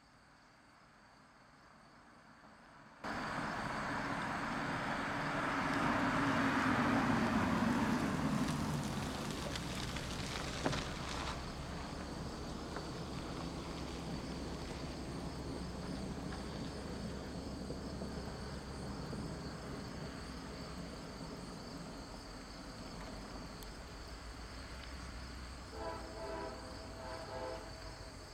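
CSX EMD GP38-2 diesel locomotive, with its 16-cylinder two-stroke engine, approaching on a local freight: a steady rumble of engine and wheels on rail that comes in suddenly about three seconds in and is loudest a few seconds later. A brief pulsing tone sounds near the end.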